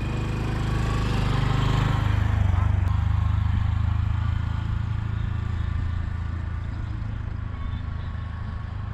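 Honda Super Cub's small single-cylinder four-stroke engine running, getting louder over the first two seconds, changing pitch about two seconds in, then holding a steady note.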